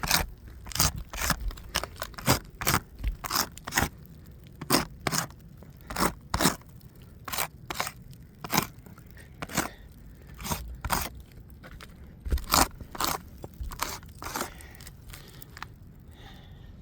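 Irregular gritty crunches and scrapes on asphalt roof shingles, a few each second, thinning out near the end.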